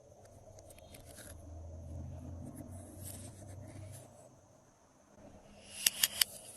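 Glossy slime being worked by hand, with a low rumble from the handling, then three sharp pops in quick succession near the end.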